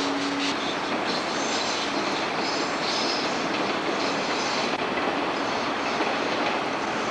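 A train running on rails, a steady rumble and rush of wheels on track.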